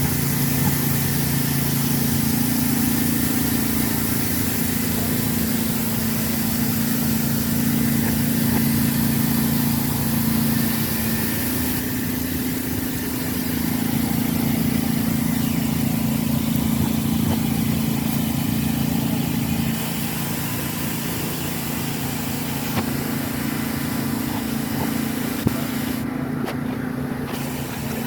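A motor vehicle running steadily: a constant low engine hum over an even rush of noise.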